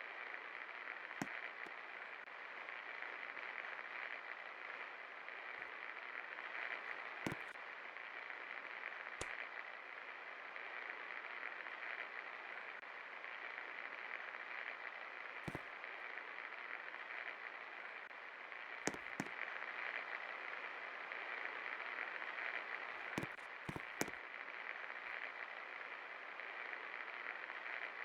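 36-inch Gold Star industrial ceiling fan running, a steady whooshing hiss of moving air, with a few scattered clicks.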